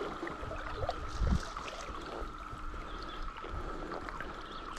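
Steady outdoor background of running stream water, with low wind rumble on the microphone and a few faint small clicks.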